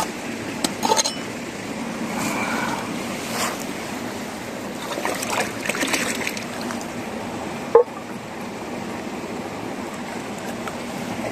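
Mountain headwater stream rushing steadily. A few light clicks and knocks come over it, with one sharp snap nearly eight seconds in.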